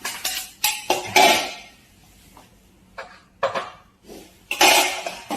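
A run of sharp clatters and knocks, like hard objects or dishes being knocked about: several in quick succession in the first second and a half, then a few more spaced out.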